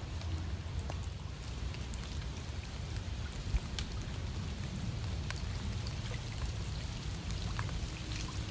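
Steady rain falling on a pond and the surrounding leaves, heard as many scattered drop ticks over a steady low rumble.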